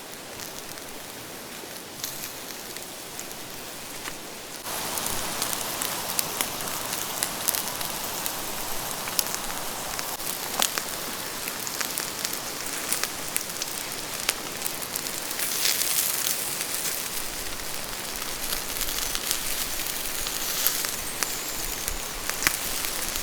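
Rain falling steadily, a hiss with many scattered drops ticking; it gets louder about five seconds in.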